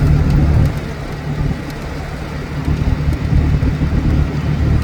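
Low, uneven rumble of a motor vehicle travelling along the road, a little quieter from under a second in.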